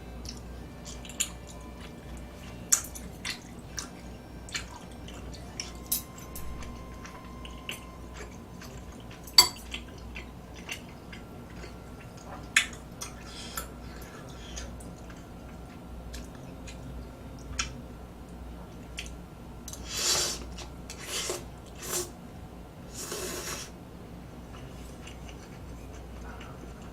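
Eating at a table: sharp clicks of utensils against a dish, scattered irregularly, then a cluster of four louder, longer noisy sounds about twenty to twenty-three seconds in.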